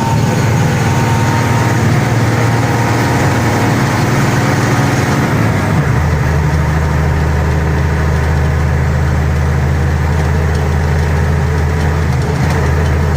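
Lorry engine running, heard from inside the cab on the move, a steady low hum whose note drops and settles about six seconds in.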